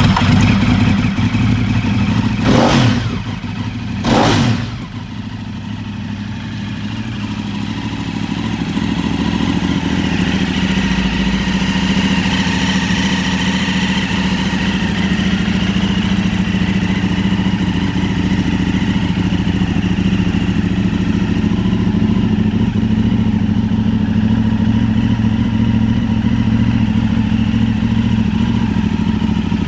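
Ducati 848 superbike's L-twin engine just after starting: revved briefly twice in the first few seconds, then idling steadily, the idle growing a little louder over the following several seconds before holding even.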